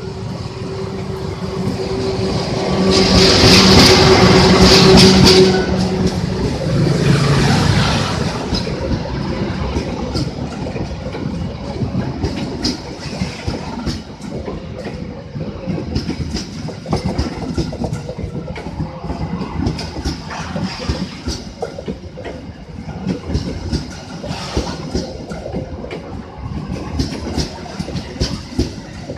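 A train passing close by. It is loudest in the first several seconds, as the leading vehicle goes by with a steady hum. After that come many repeated wheel clicks and clacks as the carriages roll over the rail joints.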